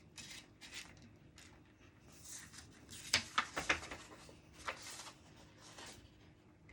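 Desk handling noises: rustling of paper and objects, with a quick run of three sharp taps about three seconds in.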